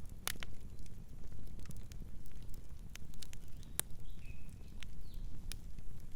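Campfire burning and crackling: irregular sharp pops and snaps over a steady low rumble. A faint, short, high-pitched sound comes about midway.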